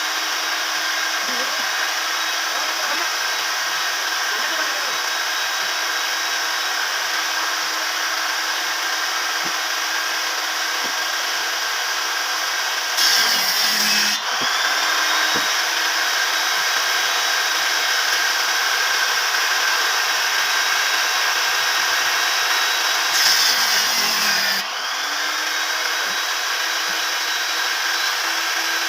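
Woodworking power tool motor running steadily with a whining hum. Twice it briefly gets louder and its pitch sags, then winds back up to speed.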